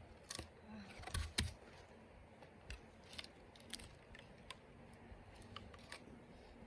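Scattered light clicks and knocks, with one sharper knock about a second and a half in.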